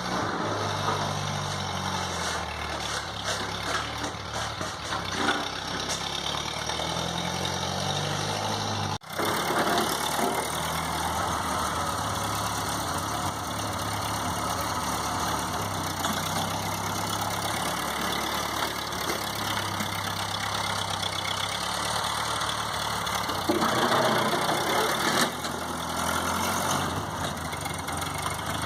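1952 Ford 8N tractor's four-cylinder flathead gas engine running under load while plowing heavy wet snow, its note stepping up and down in pitch. The sound drops out for an instant about nine seconds in, and a louder, harsher stretch comes near the end.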